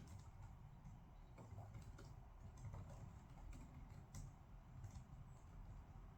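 Faint, irregular clicks of typing on a computer keyboard, over a low steady room hum.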